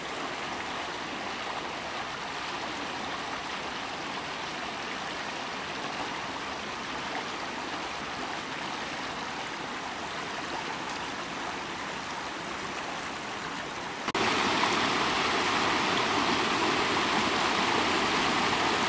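Steady rush of flowing water from a stream at a waterfall. About fourteen seconds in it cuts suddenly to a louder rush of water.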